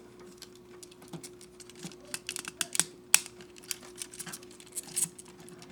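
Small plastic model-kit parts clicking and tapping as they are handled and pressed onto pegs and tabs: a quick irregular run of light clicks, the sharpest about three seconds in, over a faint steady hum.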